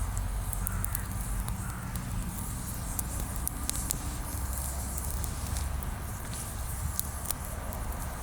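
Bonfire of freshly pruned green branches crackling, with irregular sharp pops about twice a second over a low steady rumble.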